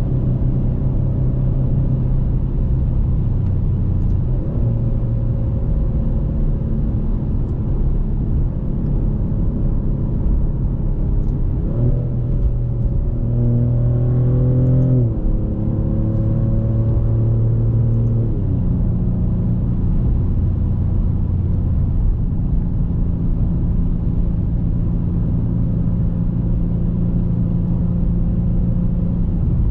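2024 Maserati GranTurismo Modena's twin-turbo 3.0 V6 Nettuno engine running under way. Its pitch rises about twelve seconds in, holds, then falls in two steps a few seconds apart.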